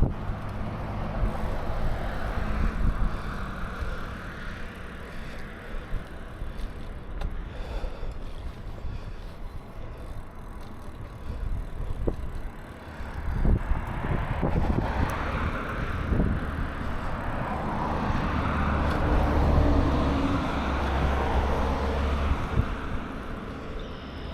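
Wind and road noise from a moving bicycle ride, with a steady low rumble and swells of noise as traffic goes by, the loudest from about 15 to 22 seconds in.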